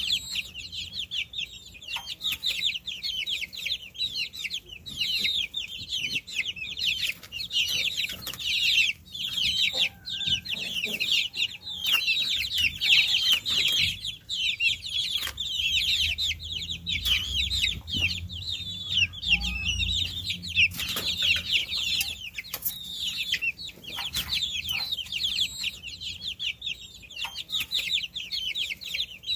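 A flock of baby chicks peeping continuously, many high-pitched chirps overlapping without a break.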